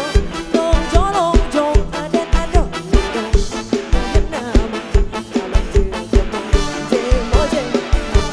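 Live band dance music with a steady, fast kick-drum beat under a bending lead melody.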